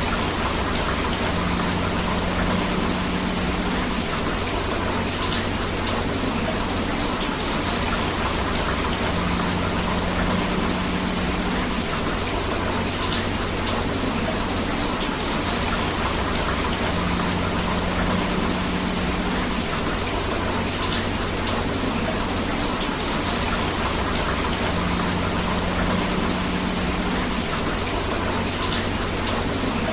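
Steady rain mixed with flowing river water, an even, unbroken rush of noise. A faint low hum comes and goes about every eight seconds.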